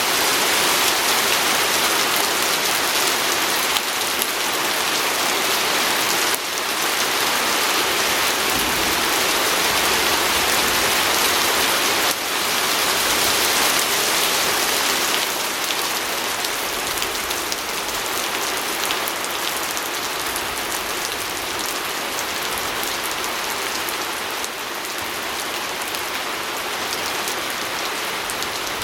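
Steady rain falling on a window, a dense even patter with no thunder.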